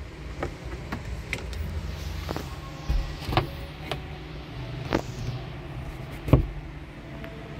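Clicks and knocks of a car's interior plastic trim being handled: the glovebox lid and the sun visor being moved, with a few short swishes between them. The loudest knock comes about six seconds in.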